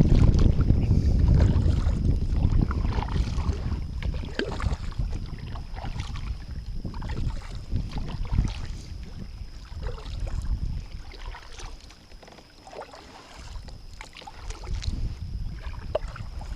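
Wind buffeting the microphone on a kayak, heavy at first, dropping away about two-thirds of the way through and picking up again near the end, with scattered faint knocks and splashes from the paddle.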